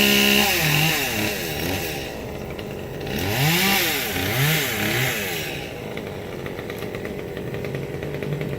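A small engine, like a chainsaw or string trimmer, revving up and down several times, then settling back to a lower steady run after about six seconds.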